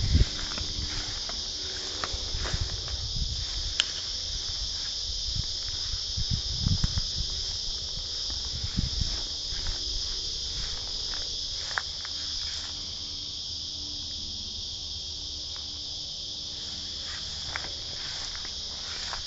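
A steady, high-pitched chorus of insects, with irregular low thumps of footsteps and camera handling in the first half.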